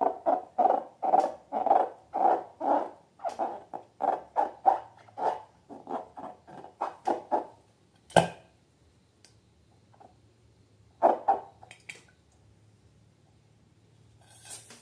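Slime being squeezed and kneaded by hand: a fast run of wet squelches, about three or four a second, stops after about seven seconds. A single sharp smack follows, then a few more squelches a little later.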